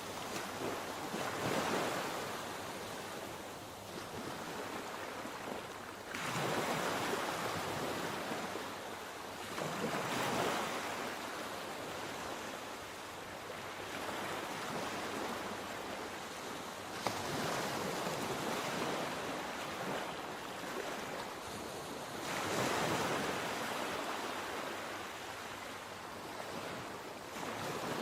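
Sea waves breaking in surf, one after another, each surge swelling and fading about every four to six seconds over a steady wash of water.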